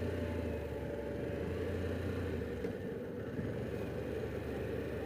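Harley-Davidson Pan America's V-twin engine running steadily under way, with road and wind noise; the engine note drops a little about halfway through.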